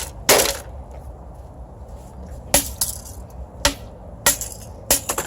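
Washing machine control-panel electronics being smashed apart: about five sharp cracking impacts at irregular intervals, with plastic and parts breaking.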